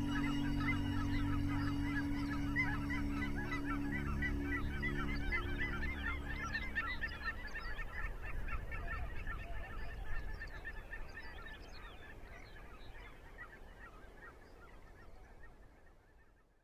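A large flock of geese calling, many honking calls overlapping densely, fading away toward the end. A low steady drone sounds under the calls for about the first half.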